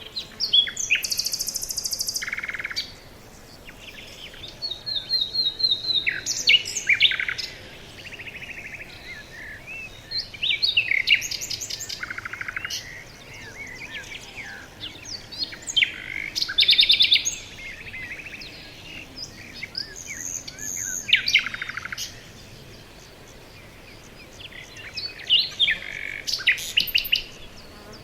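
Several songbirds singing in a forest: bursts of fast chirps and trills every few seconds, some high and buzzy, over a quiet, steady background.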